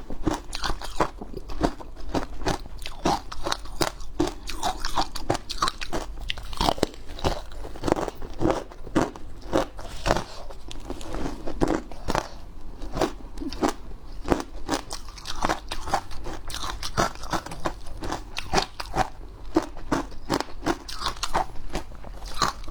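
Hard ice being bitten and chewed, a steady run of sharp, irregular crunches.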